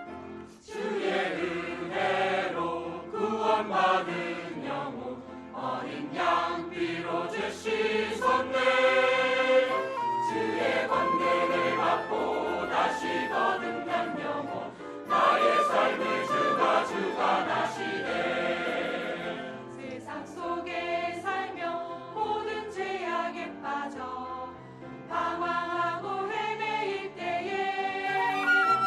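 Church choir singing a hymn anthem in parts with instrumental accompaniment.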